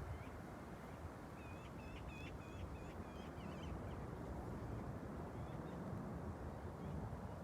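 Faint, steady low rumble of a departing airliner's jet engines, with a small bird chirping a quick run of about seven short notes a couple of seconds in, and a few single chirps around it.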